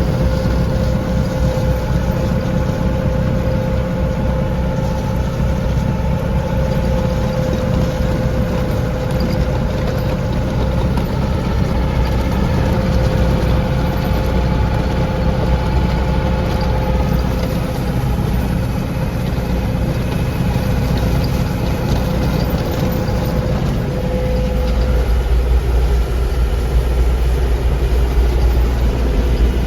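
Lovol tractor engine running steadily, with a high steady whine on top. About 25 seconds in the whine stops and the low engine sound grows stronger.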